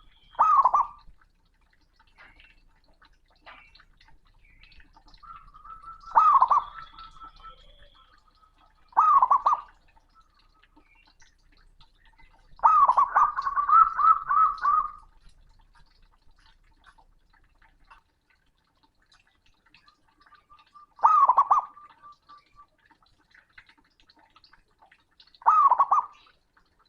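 Male zebra dove (perkutut) calling a rival: six loud cooing phrases a few seconds apart. One phrase near the middle runs about two seconds with several quick repeated notes.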